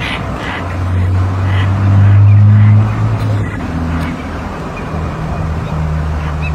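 Motor vehicle engine running close by, a steady low hum that swells loudest about two seconds in, with a couple of harsh crow caws in the first two seconds.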